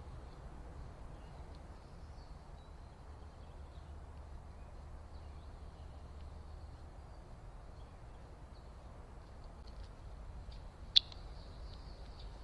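Outdoor backyard ambience with scattered faint bird chirps over a steady low rumble, and one sharp, loud chirp about eleven seconds in.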